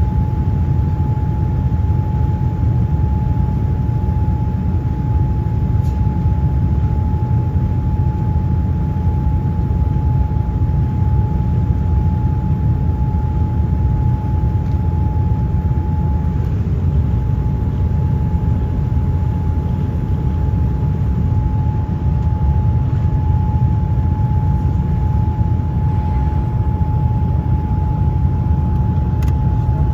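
Airliner cabin noise in flight: a steady, loud low rumble with a constant whine held on one pitch.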